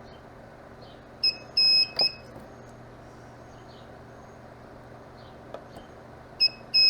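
Mini spot welder beeping and firing as it welds nickel strip onto 18650 cells: a short beep, a longer beep, then a sharp snap of the weld pulse with a brief beep. This happens twice, about five seconds apart, with no sparking.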